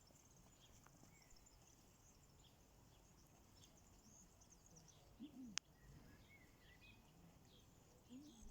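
Faint outdoor birdsong: many small, high chirps from several birds, with a single sharp click about five and a half seconds in.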